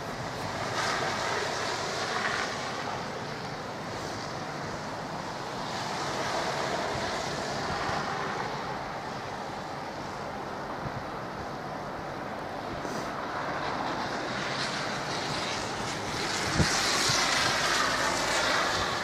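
A train approaching slowly along the line: a steady rushing rumble that swells and falls several times and is loudest near the end, with one sharp click a couple of seconds before the end.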